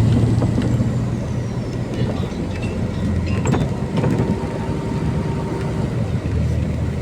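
MAZ-203 city bus running, a steady low engine drone with scattered rattles and clicks.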